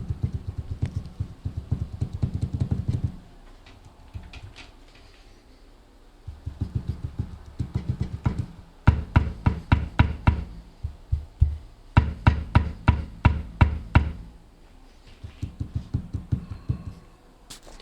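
Car steering rack knocking in bursts of rapid, rhythmic knocks separated by short quiet gaps, the sharpest and loudest strikes near the middle. The knock has come back after the rack was taken apart, so the rack fault is still there.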